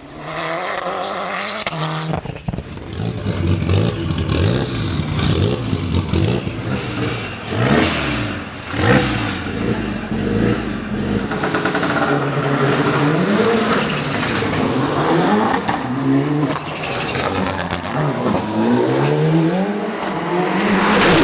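Rally car engine at full throttle on a hill climb, its pitch climbing and dropping back again and again as it shifts through the gears and lifts for corners.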